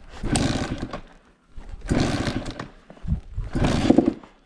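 Honda CR two-stroke dirt bike being kick-started with the choke on: three kicks about a second and a half apart, the engine turning over briefly on each without catching. It is a hard cold start, the bike not wanting to go.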